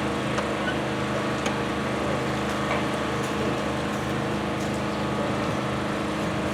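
Truck diesel engine idling steadily, with a few faint clicks over it.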